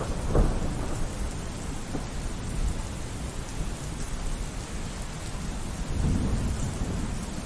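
Steady heavy rain with thunder: a sharp thunderclap about half a second in, and a low rolling rumble of thunder swelling about six seconds in.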